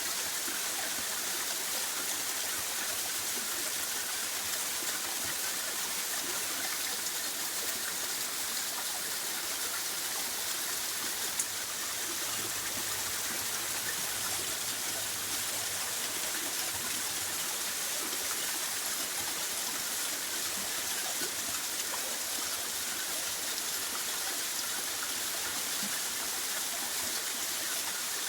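Steady rushing of a flowing stream, an even water noise with no pauses; a single sharp click sounds about 11 seconds in.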